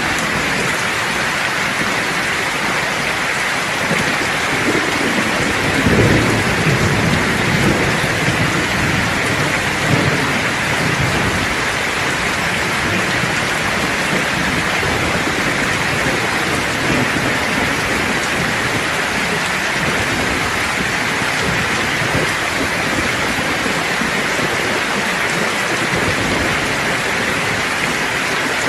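Steady heavy rain pouring, with a low roll of thunder that builds a few seconds in, peaks soon after and rumbles away before the middle.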